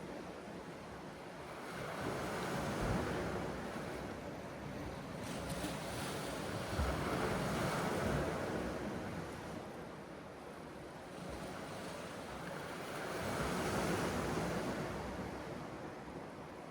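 Sea waves breaking and washing ashore, the surf noise swelling and fading three times, with wind rumbling on the microphone.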